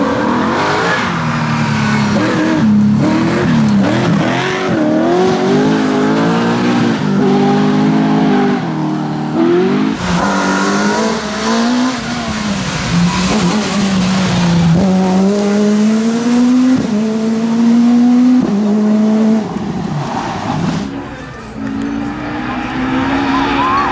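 Rally car engine running hard at high revs, climbing in pitch and dropping back at each gear change, several times over.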